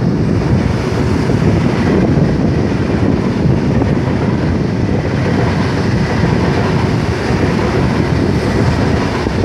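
Trenitalia Frecciarossa 1000 high-speed electric train passing close by at speed: a loud, steady rush of wheel-on-rail and air noise.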